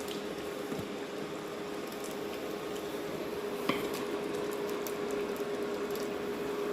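Chicken pieces simmering in curry gravy in an uncovered pot: a steady bubbling hiss over a low steady hum, with a few light clinks of a utensil on the pot, the clearest a little under four seconds in.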